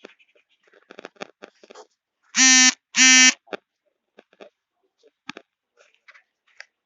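Two loud buzzing beeps in quick succession, each about half a second long and held at one steady pitch, with faint clicks and rustling around them.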